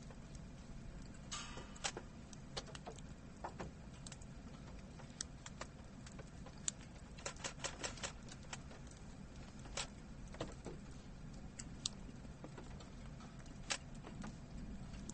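Faint, irregular light ticks and taps, a few each second in places, over a steady low hum inside a car.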